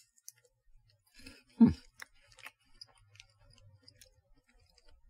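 A person chewing a crispy chocolate-coated puffed corn stick, with scattered small crunching clicks. A short hummed "mm" comes about a second and a half in.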